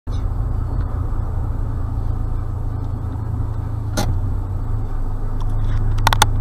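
Steady low road and engine rumble of a moving car, as picked up by a dashcam, with a sharp click about four seconds in and a quick run of clicks near the end.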